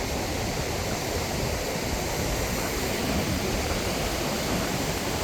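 Strong wind buffeting the microphone over the steady wash of ocean surf: a continuous rushing noise, heaviest at the low end.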